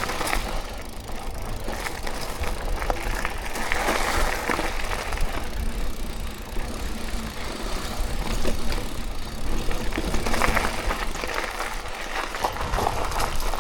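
Mountain bike rolling down a dirt singletrack: tyres on dirt, with the bike clattering and clicking over bumps throughout.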